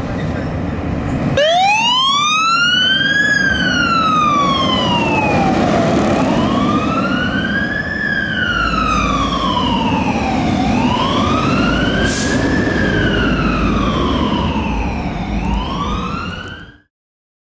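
Fire engine siren wailing in slow rising and falling sweeps, each about four and a half seconds long, over a low rumble. The siren starts about a second and a half in and the sound cuts off abruptly near the end.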